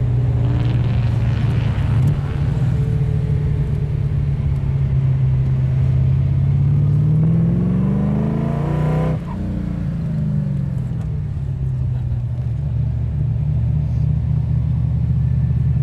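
Holden VH Commodore HDT Group 3's V8 engine heard from inside the cabin, running steadily under load. The revs climb for a couple of seconds, then the throttle is closed about nine seconds in and the revs drop away before settling again.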